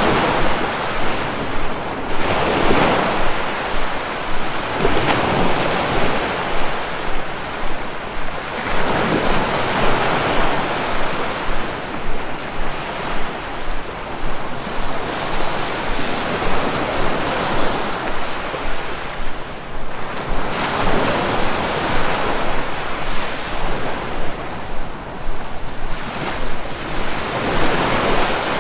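Sea waves breaking and washing ashore, a continuous surf noise that swells and ebbs every few seconds, with wind noise on the microphone.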